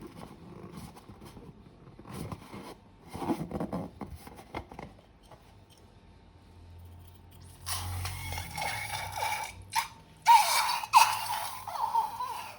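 Crunchy, crackling handling noises from slime-making with balloons and piping bags: scattered crackles first, then two louder stretches of dense crinkling in the second half, the last with a few short squeaks.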